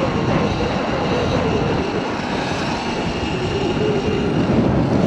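Riding noise from a Sur-Ron electric dirt bike on the road: steady wind and road rush with a faint whine that wavers up and down.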